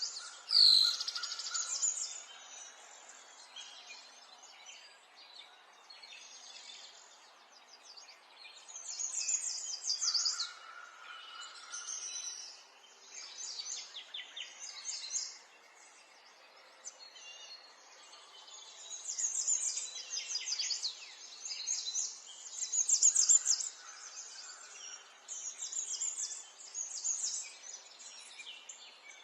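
Small songbirds chirping and singing in repeated bouts of fast, high trills, over a faint steady outdoor background.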